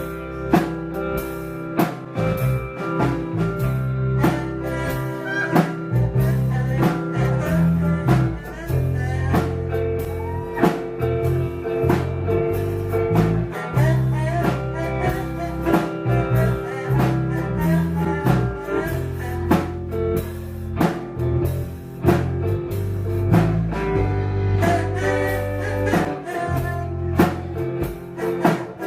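Live band playing an instrumental passage: guitar over a steady bass line and drum kit keeping a regular beat.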